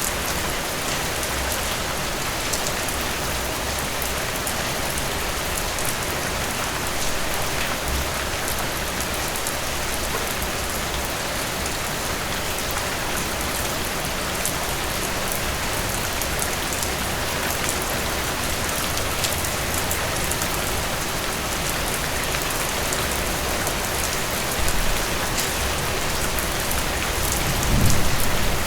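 Steady heavy rain, a dense even hiss with fine drop ticks pattering on surfaces. A low rumble of thunder begins near the end.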